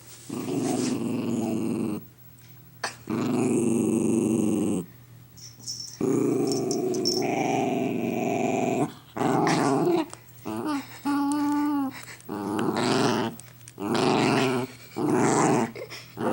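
Dog growling in long rumbling bouts of one to three seconds, with short breaks for breath between them, one bout a little past the middle turning into a more tonal moan. These are warning growls from a dog guarding its food while it eats, hackles raised.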